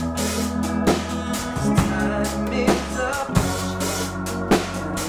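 A band playing a song with a drum kit keeping a steady beat, a hit about every second, under bass and held chords.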